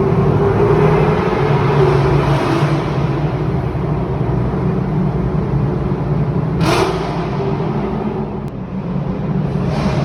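Sports-car engine and exhaust echoing in a road tunnel, running steadily, with a short sharp burst about two-thirds of the way through. The sound eases near the end, then swells again.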